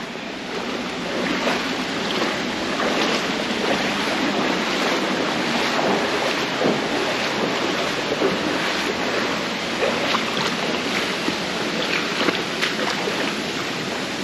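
Steady rush of stream water, with scattered splashes from wading knee-deep through it.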